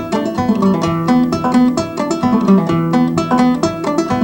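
Banjo played alone in an instrumental break: a quick, steady run of plucked notes, with no singing.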